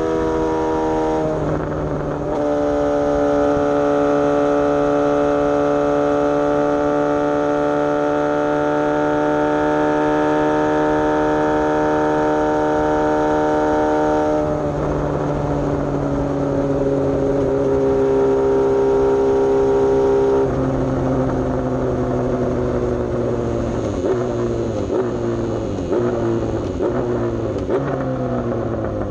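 Suzuki GSX-S750 inline-four through a Coffman's aftermarket exhaust while riding. It holds steady revs with shifts in pitch about two seconds in and again around the middle. In the last third the revs fall as the bike slows, with a run of short crackles near the end.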